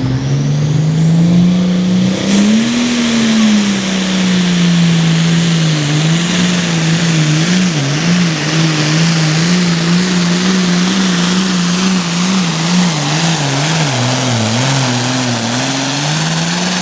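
Modified diesel pulling tractor's engine running flat out under load as it drags the pulling sled. The pitch climbs in the first few seconds, then holds high with a constant wavering as the load and traction change. It sags about three-quarters of the way through and rises again near the end.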